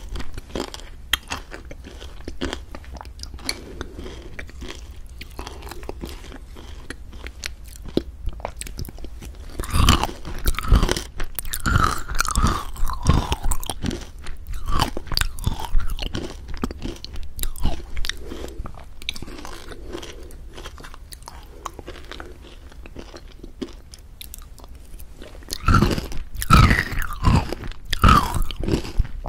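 Close-up crunching and chewing: a dense run of crisp clicks and crackles, busier and louder from about ten seconds in and again near the end.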